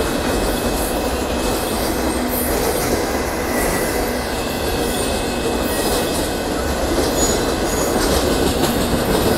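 Freight train of boxcars rolling steadily past at a grade crossing: a continuous rumble and clatter of steel wheels on the rails, with a few faint high wheel squeals now and then.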